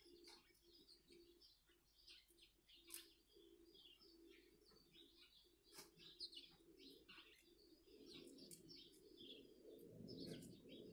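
Faint chirping of small birds, many short high calls throughout, with a few sharp ticks between them.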